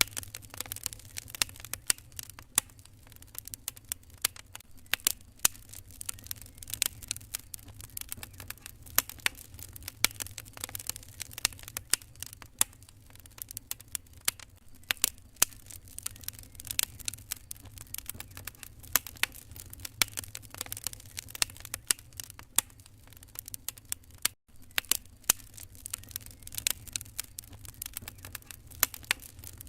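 Wood fire crackling in a fireplace: a dense, irregular run of sharp pops and snaps over a low steady rumble. The sound cuts out for an instant about 24 seconds in.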